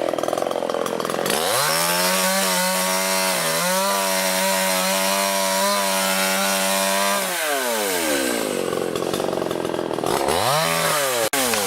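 SVENA two-stroke chainsaw revved up to high speed about a second in, held there for about six seconds with a slight dip, then let back down, followed near the end by one more short blip of the throttle.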